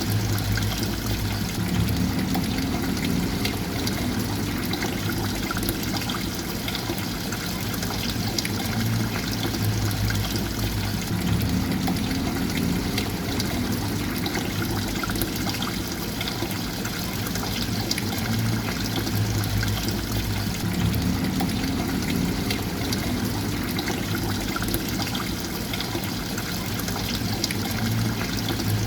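Steady trickling and pouring water, with a low rumble underneath that shifts in a pattern repeating about every ten seconds.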